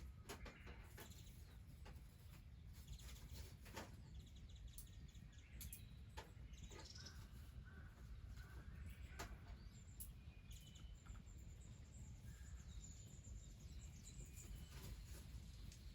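Faint outdoor ambience: a steady low rumble with scattered soft clicks, and birds calling thinly in the distance now and then.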